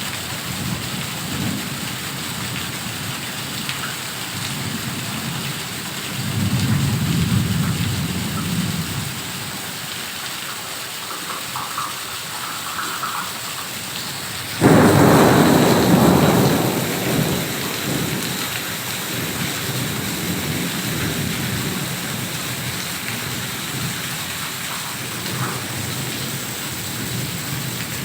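Heavy rain falling steadily, with a low roll of thunder about six seconds in and a sudden loud thunderclap about halfway through that rumbles away over a few seconds.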